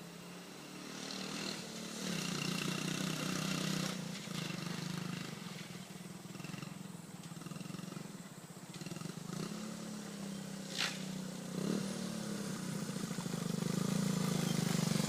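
1977 Honda CT90 Trail's small single-cylinder four-stroke engine running as the bike is ridden. It grows louder in the first couple of seconds, eases off in the middle, then grows louder again near the end.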